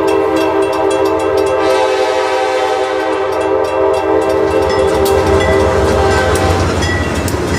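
A locomotive's multi-note chime sounding one long, steady blast that stops about six and a half seconds in, over the low rumble and scattered wheel clicks of a passing train.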